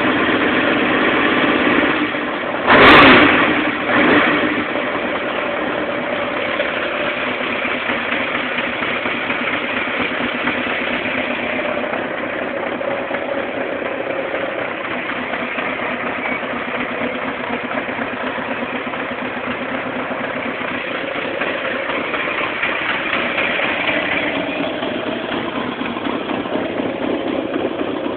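1986 Yamaha XJ600's air-cooled inline four-cylinder engine idling steadily on a test run after a barn-find rebuild, which the owner says runs very sweet. There are two brief loud bursts about three and four seconds in.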